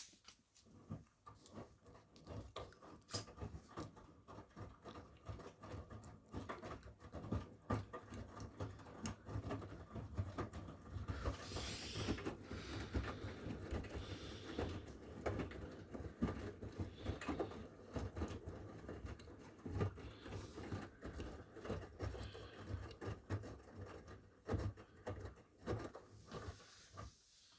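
Miele W1 front-loading washing machine turning its drum during the wash, with wet laundry tumbling and sloshing in irregular soft thuds over a steady motor hum. The drum starts right at the beginning and stops just before the end, the usual turn-and-pause rhythm of a wash cycle.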